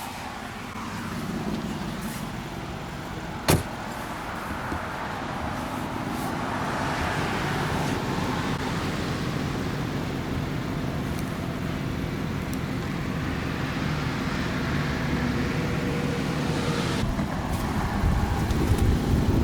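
Mercedes G500's 4.0-litre twin-turbo V8 idling steadily while cold, slowly growing louder, with one sharp knock about three and a half seconds in.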